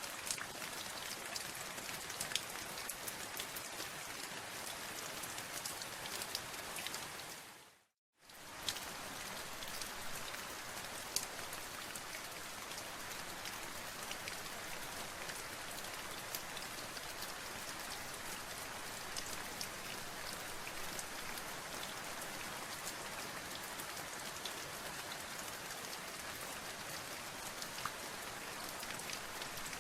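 Steady rain with many individual drops pattering on a surface. About eight seconds in, the sound fades out to silence for a moment and then comes straight back.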